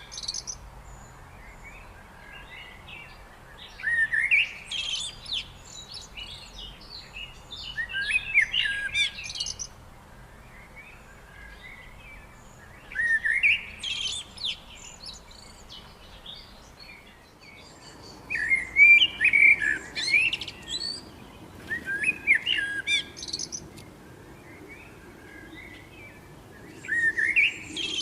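A songbird singing short, quick, chirpy phrases of rising and falling notes, each about one to two seconds long, repeated every four to five seconds with quiet gaps between them.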